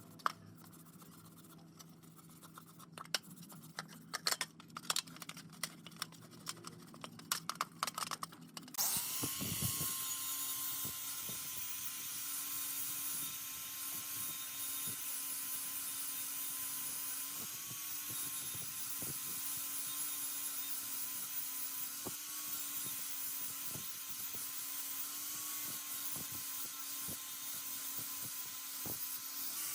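Scattered clicks and taps of parts being handled. About nine seconds in, a small electric power tool starts up, quickly comes up to speed and runs steadily with a hum and hiss.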